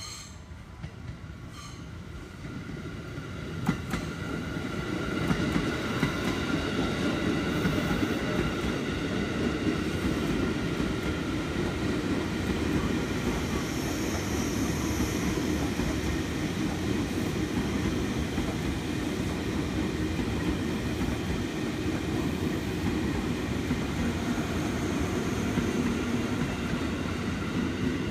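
A train passing on the tracks. It grows louder over the first few seconds, then runs steadily close by, a dense rumble with a thin high whine above it.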